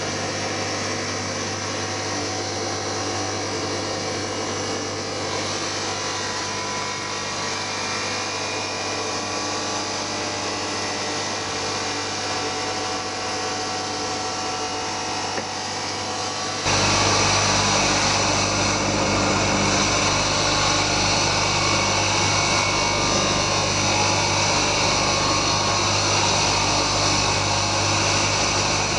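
A power tool running steadily, with a low hum under a noisy whine; it gets louder and brighter about two-thirds of the way through.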